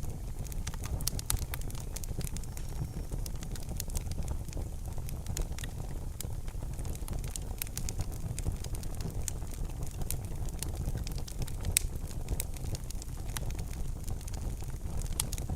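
Wood fire in a fireplace crackling, with frequent sharp pops and snaps over a steady low rumble of the flames; one louder pop comes about twelve seconds in.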